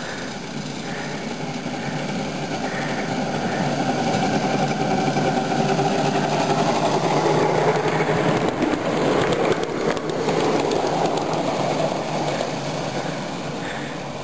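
Miniature ride-on backyard train running on its track with a rapid clatter. It grows louder toward the middle as it passes close by, then fades away.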